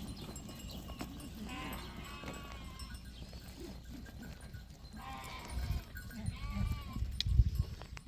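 Sheep bleating, two bouts of wavering calls, with low thumps in the second half.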